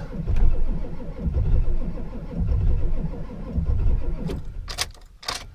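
Ford 7.3-litre V8 diesel engine being cranked by the starter on a very cold start, a few cylinders catching and firing unevenly but the engine not running on its own. The cranking stops near the end.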